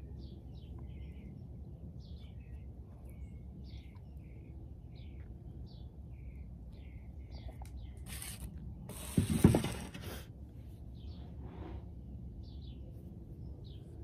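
Small garden birds chirping, with many short calls scattered throughout, over a low steady background rumble. About eight to ten seconds in, a brief louder noise stands out.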